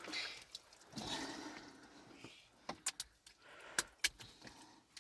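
Several sharp, separate clicks and knocks in the second half, over a faint noisy background.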